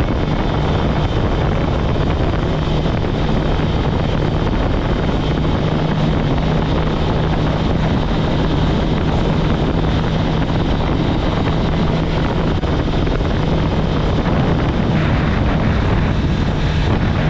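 Kawasaki ZX-10R's inline-four engine running at a steady pitch while the motorcycle cruises, with wind rushing over the microphone.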